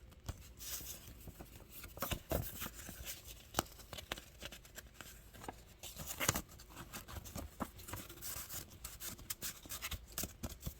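Paper handling: old greeting cards and envelopes rustling and scraping, in irregular soft clicks and scratches.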